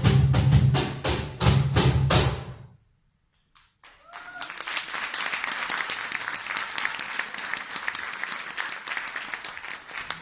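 Percussion-driven live music with heavy, fast drum strokes breaks off a few seconds in. After a short gap, an audience applauds steadily in a large hall.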